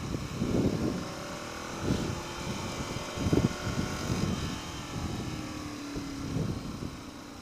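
Ducati Monster 696's air-cooled L-twin engine running through its stock exhaust while the bike is ridden, its pitch slowly shifting. Irregular gusts of wind noise hit the microphone over it.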